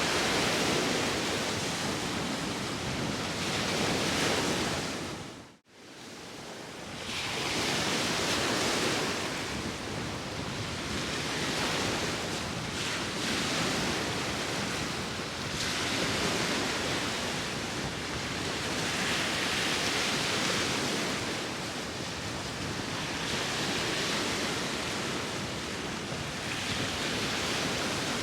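Sea waves washing in on the shore with wind, a steady rush of surf that swells every five or six seconds. About five and a half seconds in the sound dips almost to silence for an instant and fades back up.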